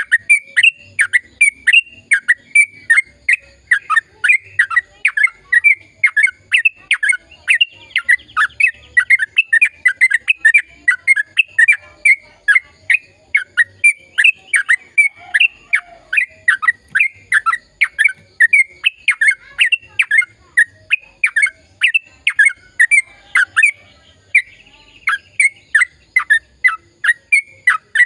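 Sooty-headed bulbul (trucukan) singing in full voice: a long, unbroken run of quick, sharply falling whistled notes, about three a second, with a brief pause near the end.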